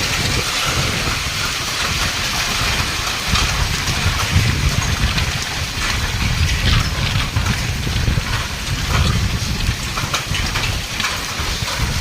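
Heavy rain and hail pouring down in a strong storm, with scattered sharp clicks of hailstones striking. Storm wind buffets the microphone as a heavy, fluctuating rumble.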